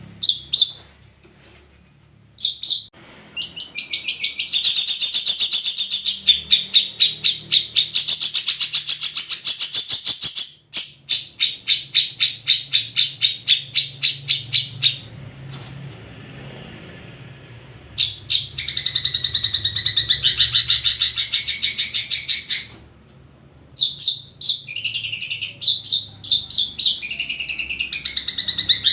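Long-tailed shrike (cendet) singing in bouts of fast, rapidly repeated high chattering notes, with short pauses between bouts.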